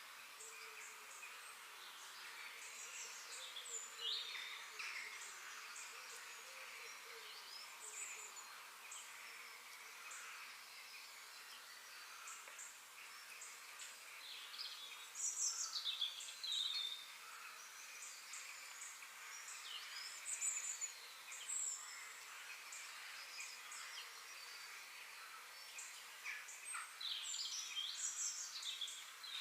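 Several small birds chirping and calling in short, rapid notes and quick falling sweeps, over a steady high hiss of outdoor ambience; the calls come in busier, louder bursts a few times.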